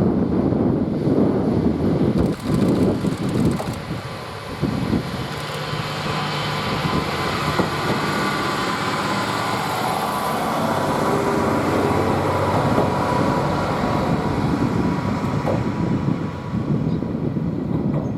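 Hojo Railway KiHa 40 diesel railcar pulling away, its diesel engine running with a steady drone that settles in about four seconds in. Before that, an uneven low rumble.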